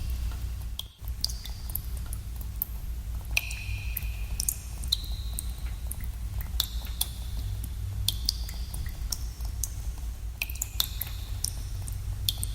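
Water drops falling into pools in a cave: many irregular plinks, each with a short ringing tone, over a steady low rumble. The sound dips out briefly about a second in.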